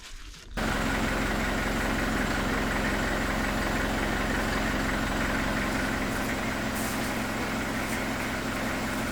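A vehicle engine running steadily at an even pace, cutting in suddenly about half a second in.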